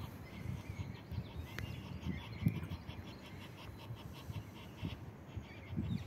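Faint chirping of small birds, short high chirps scattered through, over a low rumble.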